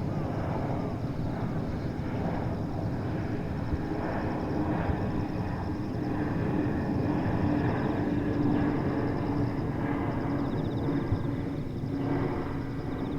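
Boeing 767 jet airliner passing overhead: a steady engine rumble with a held tone through the whole stretch.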